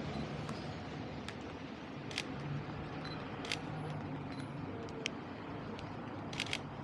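Sony A7R III shutter clicking about eight times at irregular intervals, once as a quick double click near the end, over steady city street noise.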